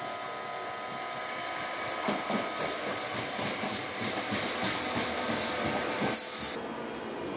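Sanyo Electric Railway electric train running past a station platform, its wheels knocking over the rail joints from about two seconds in, with a short burst of hiss near the end. Under it, level crossing warning bells sound steadily.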